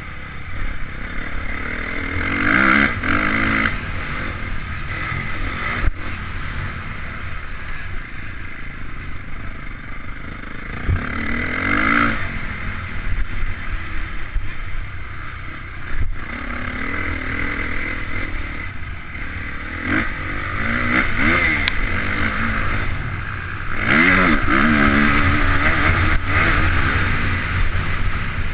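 Honda CRF450's single-cylinder four-stroke motocross engine revving up and falling off over and over as the bike is ridden round the track, heard on board. A couple of sharp knocks cut through it, about six seconds in and again near the middle.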